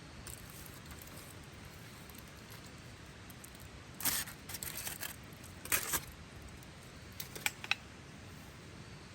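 Metal cooking gear clinking and rattling in a few short bursts, about four, six and seven and a half seconds in.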